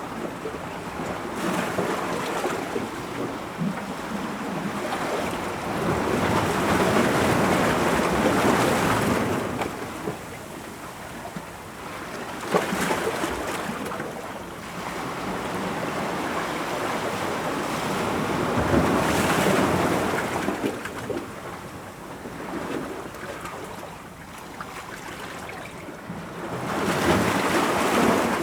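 Ocean waves breaking on rocks, a continuous wash that swells and recedes, with surges peaking about a third of the way in, about two-thirds in and near the end, and a sharp splash a little before the middle.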